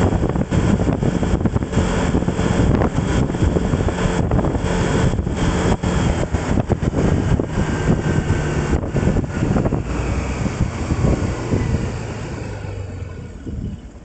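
Wind buffeting the microphone over the rumble of a moving vehicle on the road. It eases off over the last couple of seconds as the travel slows.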